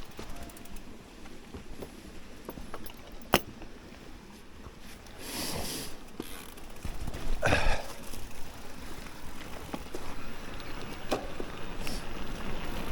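Electric mountain bike being ridden over a rough trail: tyre noise and rattling with scattered sharp clicks, one louder click about three seconds in, and two louder rushing bursts around five and seven seconds in.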